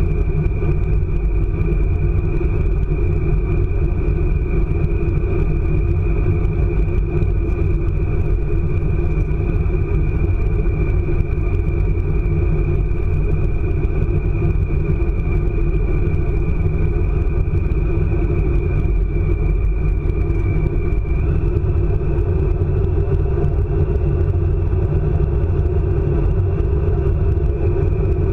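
ICE high-speed train running at speed: a steady loud rumble with a steady high whine over it, which steps up slightly in pitch about two-thirds of the way through.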